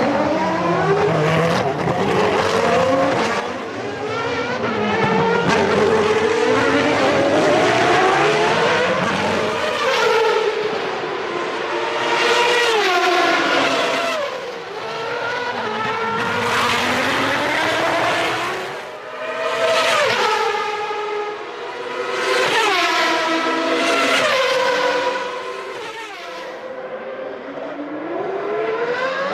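Early-1990s Formula One car engines screaming at high revs, several cars in turn, pitch dropping sharply on downshifts into corners and climbing again as they accelerate away.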